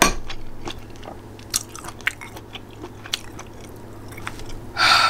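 A person chewing food close to the microphone, with scattered wet mouth clicks and smacks and a short, louder noisy burst near the end.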